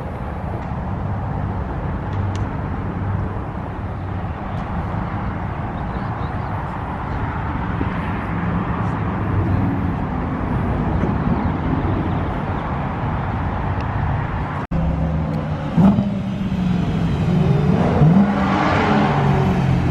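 A car engine running with road noise while driving. About 15 s in there is a brief cut, after which the engine note grows louder and rises and falls, as with revving through the gears.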